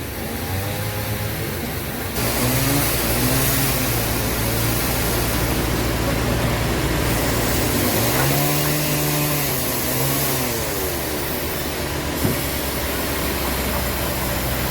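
Sawmill machinery running: an engine whose pitch rises and falls under load, with a loud hiss of the saw cutting through the wood. The sound changes abruptly about two seconds in and again near the end, and there is a single sharp knock shortly after the second change.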